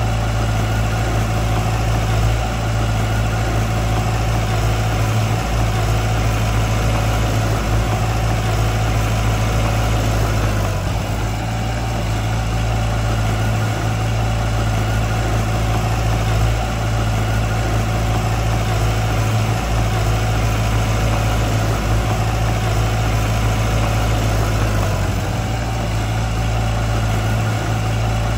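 Diesel engine of heavy earthmoving machinery running steadily with a deep, even drone, easing slightly about 11 seconds in.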